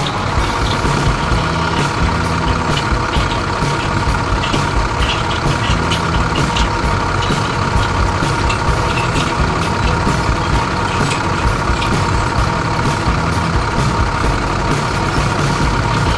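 Heavy farm vehicle engine running steadily: a low rumble with a steady high whine over it.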